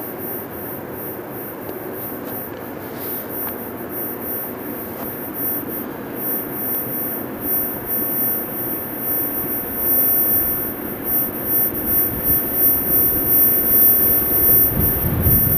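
Freight train of tank wagons hauled by a VL10U electric locomotive, a steady rumble growing louder as it approaches, with a deeper rumble building near the end.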